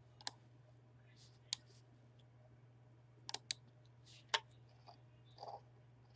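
Faint, scattered computer mouse clicks, about five of them with two close together near the middle, over a low steady hum.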